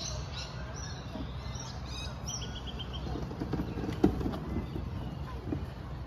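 Birds chirping, with a quick run of repeated high notes about two and a half seconds in, over a steady low rumble. There are scattered soft knocks, and a sharp, loud one about four seconds in.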